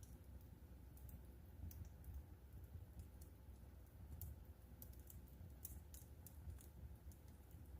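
Wood fire crackling softly: scattered, irregular sharp pops and snaps over a low steady rumble of the flames.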